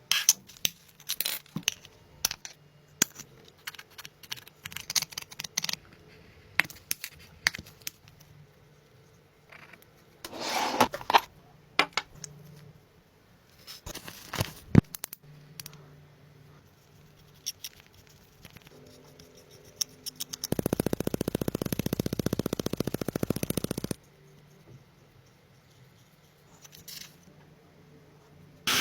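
Workshop handling sounds: scattered metal clinks, clicks and scrapes of tools and parts, with a few louder clattering moments. About two-thirds of the way through, a power tool runs with a fast, even pulsing for about three and a half seconds.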